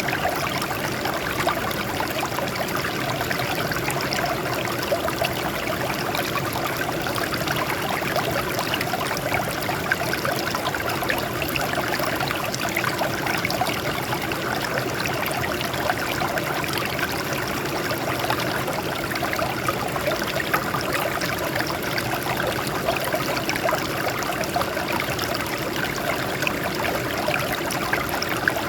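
Water flowing steadily over and off rocks, a continuous splashing and trickling stream.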